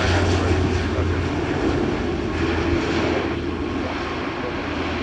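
Airliner engine noise, a steady loud sound that slowly fades.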